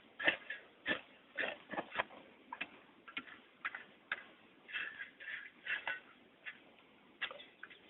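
Loose earth being scraped up and tipped onto smouldering campfire coals to bury them: irregular short crunching scrapes, about two a second.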